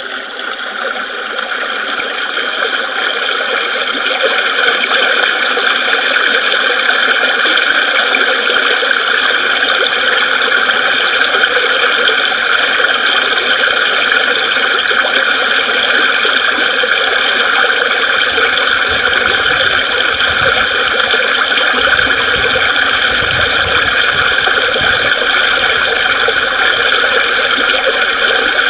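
Babbling creek: a steady rush of flowing water, fading in over the first few seconds.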